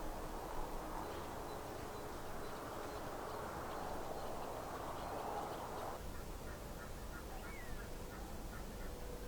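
A steady rushing background noise. From about six seconds in, a quick run of short, faint bird calls repeats, with one rising call among them.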